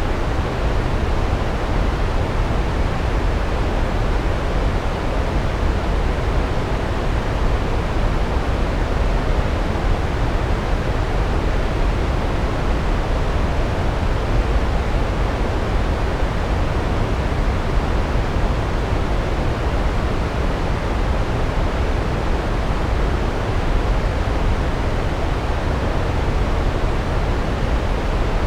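Large waterfall: a steady rush of falling water, heaviest in the low rumble, with no breaks or changes.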